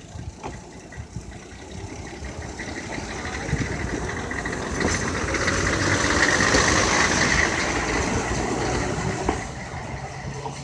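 Diesel rail vehicle's engine running on the preserved former Nanbu Jukan Railway line. It grows louder to a peak past the middle, then eases off, as if approaching and moving on.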